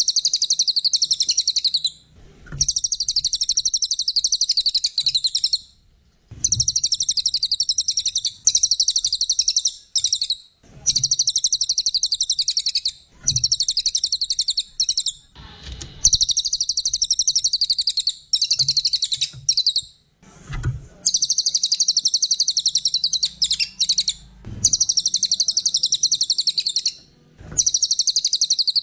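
Cililin songbird singing a run of loud, rapid high-pitched trills, each lasting two to four seconds with short pauses between them.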